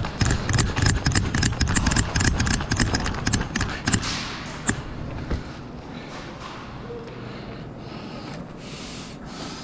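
Fast running footsteps thudding on a hard floor, dense knocks and clicks for about four seconds, then dying down to quieter movement.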